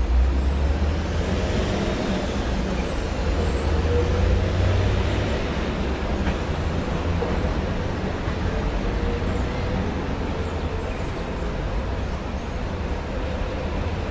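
City road traffic: a steady rumble of passing vehicles, loudest at the start, with thin high-pitched squeals that rise and fall in the first few seconds.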